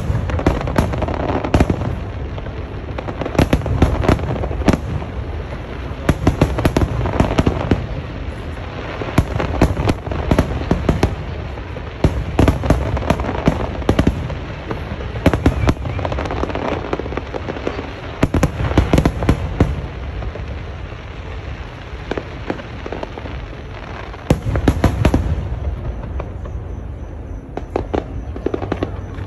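Fireworks display: dense, repeated bangs and crackling over a continuous low rumble, coming in waves that build and ease off every few seconds.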